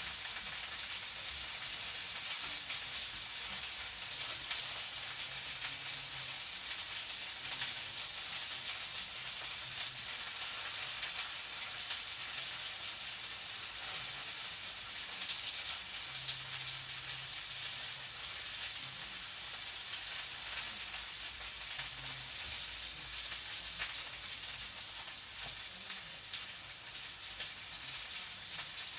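Food frying in a pan: a steady sizzle with fine crackles throughout.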